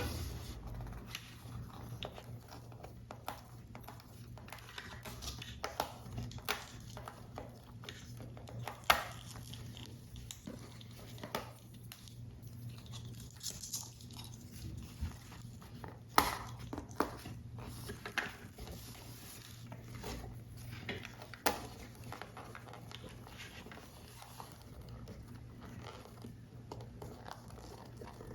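Paper and small tools handled while assembling a paper model: light rustling with scattered sharp taps and clicks, three of them louder than the rest.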